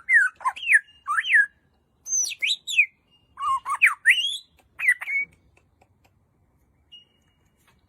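A bird calling: a run of quick whistled notes that slide up and down, mixed with squawks, over the first five seconds or so, then a single faint note near the end.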